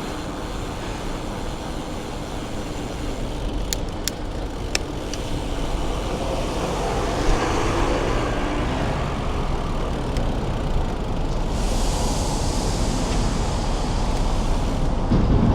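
City road traffic heard from a moving bicycle: a steady rumble of cars passing, with one vehicle swelling louder about halfway through and a brighter hiss of tyres and air in the last few seconds. A few short sharp clicks sound about four seconds in.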